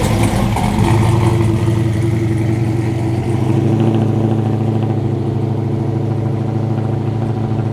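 Performance car engines running at low revs as cars pull slowly out past, a steady low engine note with little revving; the engine note shifts slightly about halfway through as another car comes by.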